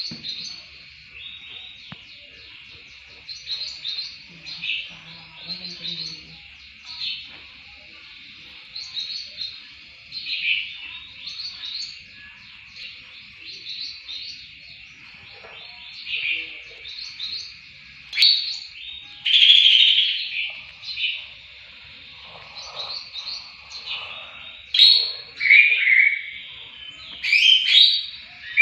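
Green leafbird (cucak hijau) singing a fast, varied run of chirps and short whistled notes over a steady high hiss. The song grows louder and fuller about two-thirds of the way through and again near the end.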